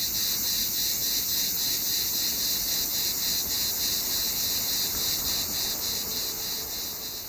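Cicadas singing: a continuous high, hissing buzz with a faint pulse about four times a second, starting to fade near the end.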